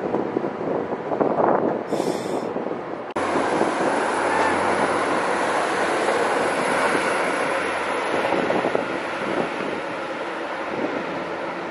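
A Class 390 Pendolino electric train running past close by and away. About three seconds in the sound changes abruptly to a steady rumble with a low hum: a Class 175 diesel multiple unit pulling away from the far platform.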